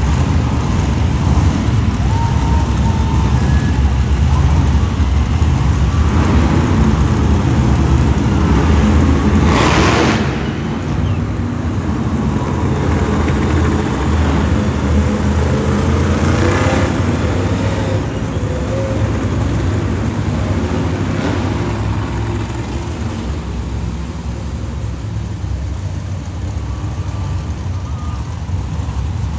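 Monster truck engines running loud and steady, with a deep rumble. About ten seconds in there is a brief burst of hiss, and after it the engine noise is a little quieter.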